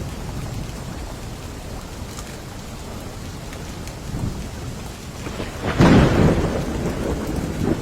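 Steady rain with a low rumble of thunder; about six seconds in a sharp, loud thunderclap cracks and rolls away into rumbling.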